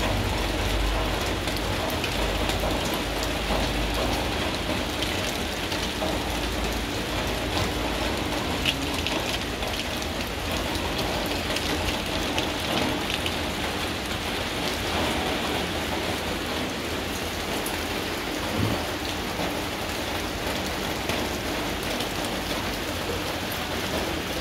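Steady rain falling on broad banana leaves, with scattered louder drops ticking. A low rumble is heard for the first few seconds.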